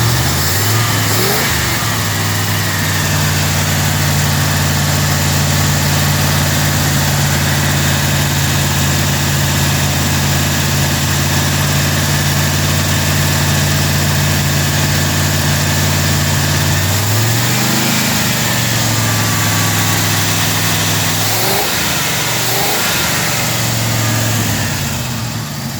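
Cold 1946 Chevrolet engine on a Rochester Quadrajet four-barrel carburettor. It is raised about a second in and held at a steady fast speed for a long stretch. Near the end it is blipped up and down a few times before dropping back. The engine is still cold, and the owner notes a flat spot in its throttle response.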